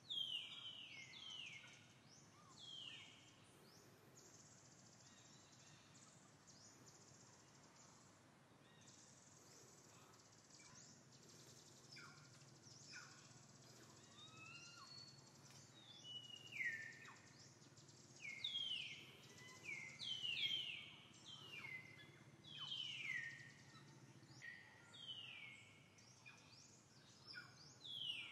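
Wild birds calling: quick downward-sliding whistled calls in clusters, more frequent in the second half, over a faint steady high hiss.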